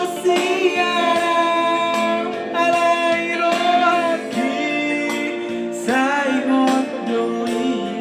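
People singing a song, holding long notes and sliding between pitches, with instrumental backing underneath.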